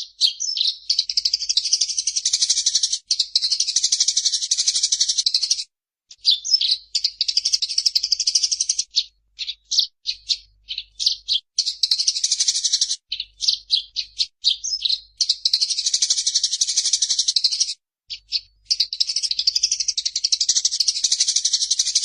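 Eurasian tree sparrow (burung gereja) in an agitated, fighting state, giving long runs of rapid, high chattering song, each run lasting a few seconds with brief pauses between.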